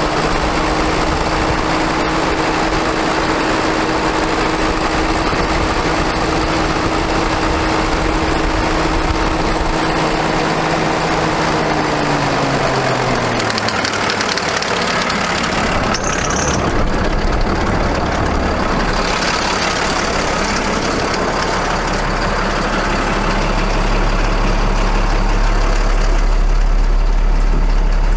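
Ford F750 water truck's Cummins ISB 6.7L straight-six diesel engine running. A steady pitched whine drops in pitch about halfway through, and a deep low rumble grows louder near the end.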